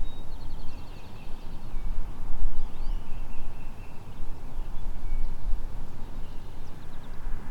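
Wind buffeting the microphone in an uneven low rumble, with small songbirds chirping and trilling faintly in the background.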